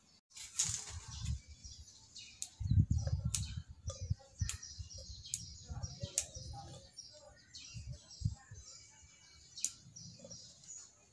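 Small birds chirping repeatedly, with bursts of low rumbling thumps underneath in the first part.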